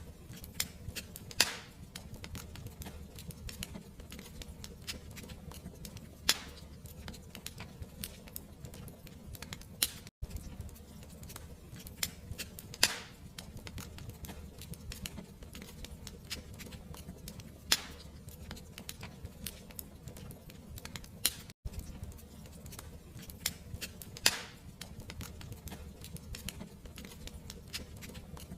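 Fireplace fire crackling: a constant patter of small snaps over a soft low rumble, with a louder pop every five or six seconds. The sound drops out for an instant twice, about ten and twenty-one seconds in.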